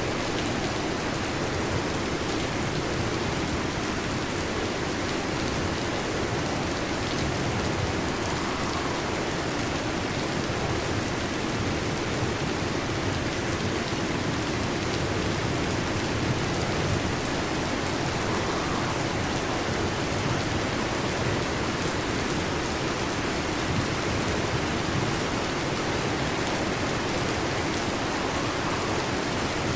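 Heavy rain drumming steadily on a metal roof, an even, unbroken hiss of drops with no thunder.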